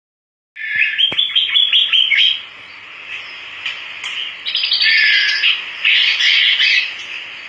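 White-headed munia (emprit haji) singing. A quick run of six or seven high notes starts about half a second in, then two loud bursts of dense, buzzy chattering come in the second half.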